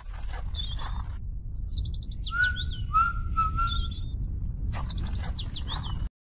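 Birds chirping and whistling, with quick high trills and short sliding whistles, over a steady low rumble; it all cuts off suddenly near the end.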